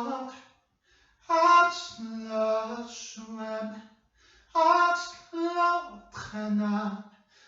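A woman singing a slow ballad unaccompanied, in held, drawn-out phrases broken by short silences about a second in and about four seconds in.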